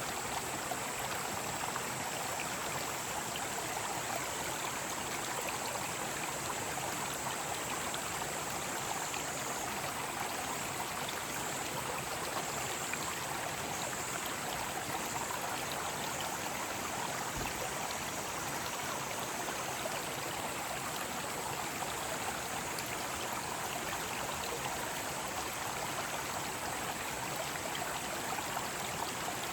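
Mountain stream rushing steadily over rocks, with a high, even cicada drone on top. The drone breaks up about ten seconds in and dies away about two-thirds of the way through.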